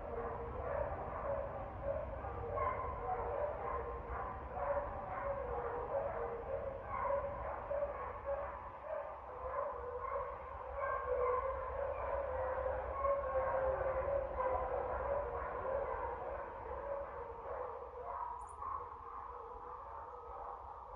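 Dogs barking over and over, many barks overlapping at different pitches, easing off a little near the end.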